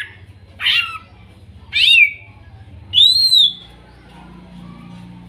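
Green leafbird (cucak ijo) calling: three loud whistled notes about a second apart, the last an arching whistle that rises and falls, over a faint low hum.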